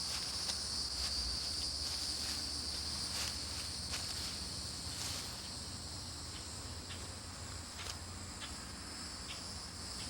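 Crickets chirring steadily in a high, even drone, with a few faint scattered ticks.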